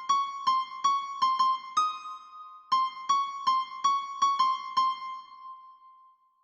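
A karaoke guide melody: the song's vocal line played alone on an electric-piano-like keyboard tone, one note at a time. Two quick runs of about seven short notes are split by a brief pause. The last note rings on and fades away.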